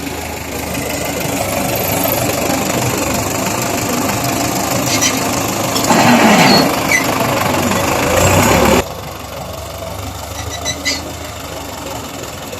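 Belarus tractor's diesel engine working hard while pulling a trolley. It grows louder about a second in and is loudest for a few seconds before dropping suddenly to a lower, steadier run near the end.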